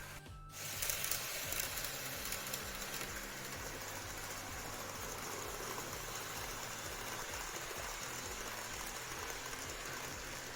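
N-scale model train running along the track: a steady whirring hiss with fine, rapid clicking from the wheels and motor. It starts abruptly about half a second in.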